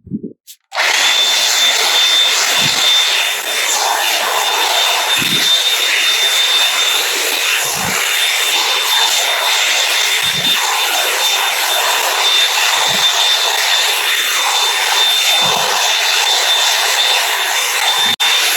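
Revlon One Step hair dryer and volumizer brush running: a steady rush of air with a thin high whine, switched on about a second in and cutting out near the end. A soft low thump comes about every two and a half seconds.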